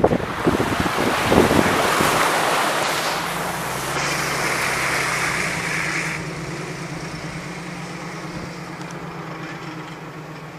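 Rushing water of a mountain stream with wind buffeting the microphone, plus a steady low hum that comes in about four seconds in.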